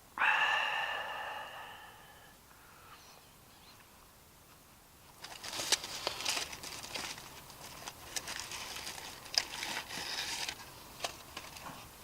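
A sharp metallic clink that rings and fades over about two seconds, then about five seconds of crackling, rustling noise broken by sharp clicks.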